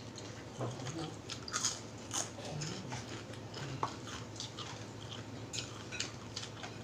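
Close-up chewing and crunching of crispy fried chicken skin, a string of irregular crisp crackles, densest about two seconds in.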